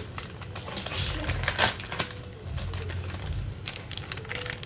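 Kitchen handling noises while mozzarella is added to a dish of pasta: irregular light clicks and rustles, with one louder knock or scrape about one and a half seconds in.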